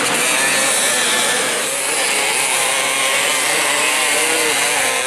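Off-road dirt bike engines revving hard, their pitch rising and falling as the throttle is worked.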